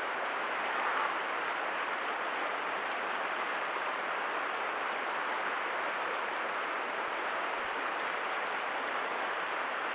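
Steady rush of a stream's running water, an even hiss with no rhythm or change.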